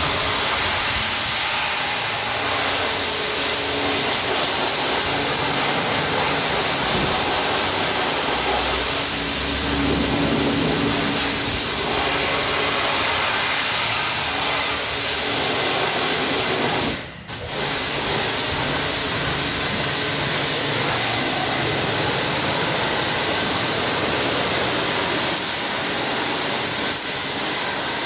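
High-pressure car-wash sprayer blasting water in a steady loud hiss, cutting out for a moment about 17 seconds in.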